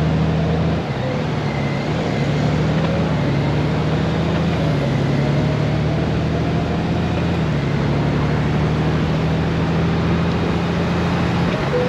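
Honda GoldWing motorcycle engine running under way, with steady wind and road noise; its engine note shifts in pitch several times as the speed changes.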